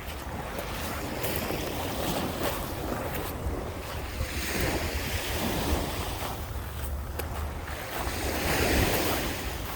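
Lake Michigan waves breaking and washing up the beach, with two larger surges, one about halfway through and one near the end. Wind rumbles on the microphone throughout.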